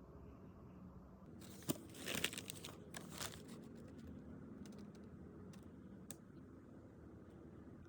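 Faint crinkling and rustling of sandwich wrapping being handled, mostly between about one and a half and three and a half seconds in, with a sharp click near its start and a couple of light ticks later.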